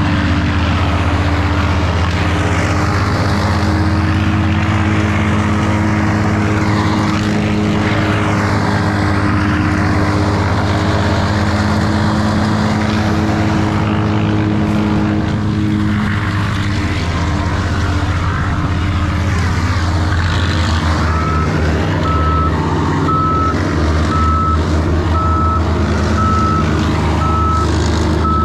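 A large engine on tree-service equipment running steadily. About two-thirds of the way through, a reversing alarm starts beeping at an even pace, a little more than once a second.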